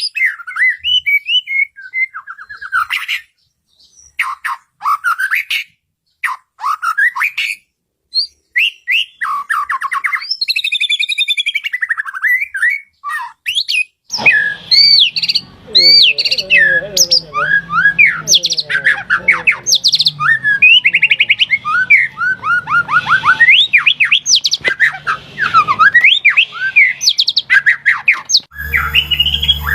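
White-rumped shama (murai batu) singing: quick, varied whistled phrases with sweeping and trilled notes. For the first half the phrases come with short pauses between them. About halfway the song becomes denser and continuous over a low background hum, and near the end a stronger steady low hum comes in.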